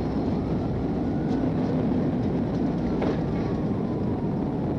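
Police patrol car driving fast in a pursuit: steady engine, tyre and wind noise at highway speed.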